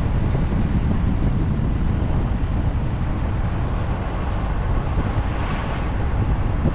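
Steady low road rumble of a moving vehicle, with wind buffeting the microphone. A brief swell of hiss comes about five and a half seconds in.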